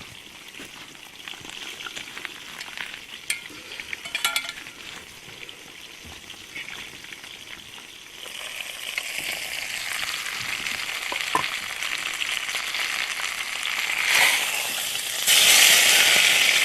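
Lamb roast sizzling and spitting in a camp oven over campfire coals, a fine crackling hiss that grows louder about halfway through and is loudest near the end. A few faint clicks come a few seconds in.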